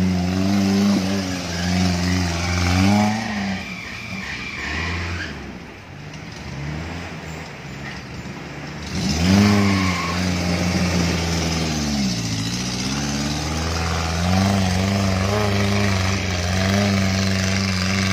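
A small off-road 4x4's engine revving under load on a steep climb, the revs rising and falling over and over. The engine drops back for a few seconds, climbs sharply about halfway through, dips briefly, then holds at higher revs.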